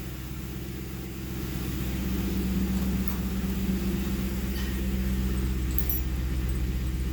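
1968 truck's engine idling with a low rumble through true dual exhaust, mufflers removed and catalytic converters still in place. It grows a little louder about two seconds in, then holds steady.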